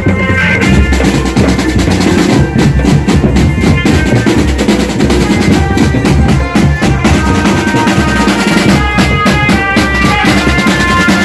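Marching drum band playing loudly, with snare rolls and bass drum under a melody on higher pitched instruments.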